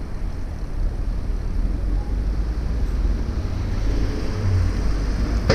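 Steady low rumble of wind buffeting the microphone on a moving bicycle, with city street traffic underneath.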